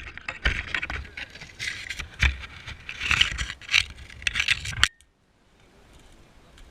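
Loud scraping and rustling close to the microphone, broken by several sharp knocks, cutting off abruptly about five seconds in.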